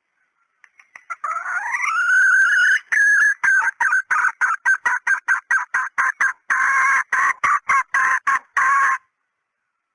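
Female red junglefowl (hen) cackling: a drawn-out call that rises in pitch, then a fast run of short repeated clucks, about three or four a second, stopping abruptly.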